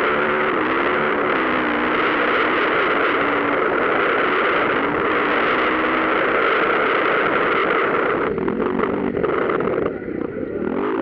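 Motocross dirt bike engines revving hard at high rpm, the pitch rising and falling with throttle and gear changes. The sound drops back briefly near the end.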